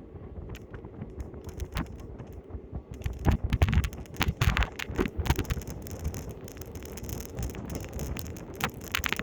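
Train running: a steady low rumble with irregular rattles and knocks, busiest about three to five seconds in, and some wind on the microphone.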